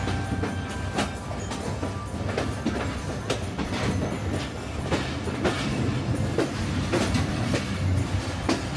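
Passenger train running along the line, a steady low rumble with irregular sharp clacks of the wheels over the rails, heard from inside the coach with the window open.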